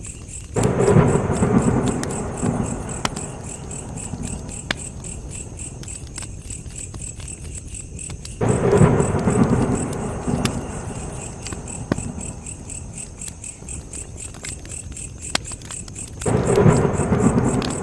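Campfire crackling with scattered sharp pops over a steady chorus of crickets. Three times, about eight seconds apart, a sudden low rush of sound swells up and fades over a couple of seconds.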